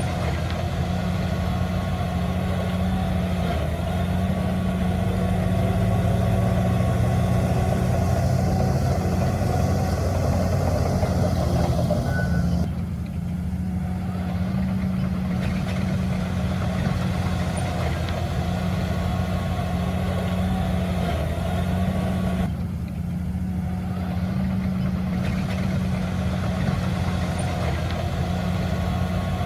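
Heavy diesel engine of earthmoving machinery running steadily with a low drone, briefly dropping back twice.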